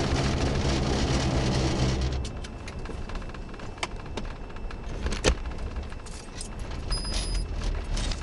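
Vehicle engine and road noise, loud for about two seconds, then dropping off sharply. Scattered clicks and rattles follow, with a short high electronic beep near the end.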